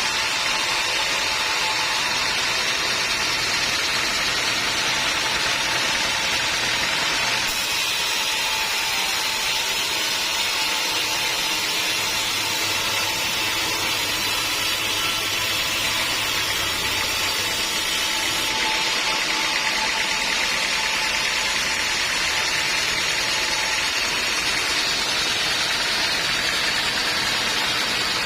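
Homemade band sawmill running steadily while sawing a teak log, a loud continuous noisy whine with no breaks.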